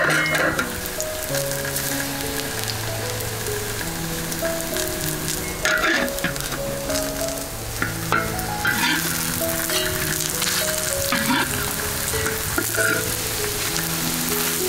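Small patties sizzling steadily as they shallow-fry in oil in a large iron wok, with a metal spatula scraping and knocking against the wok a few times. Soft background music with held notes plays underneath.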